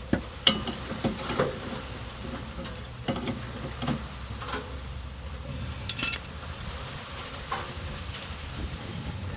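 Pipe wrench clinking and clanking against a car's steel tie rod as it is fitted and worked to break the tie rod end's threads loose. Scattered sharp metallic knocks, the loudest about half a second in and about six seconds in.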